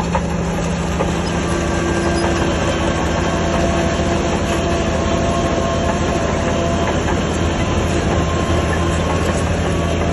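Shantui DH17C3 crawler bulldozer working: its diesel engine drones steadily under load while the steel tracks clatter, with a few thin whining tones over it.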